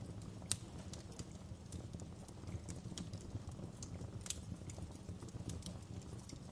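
Wood fire burning in a fireplace: a steady low rumble with irregular sharp crackles and pops. The loudest pops come about half a second in and again just after four seconds.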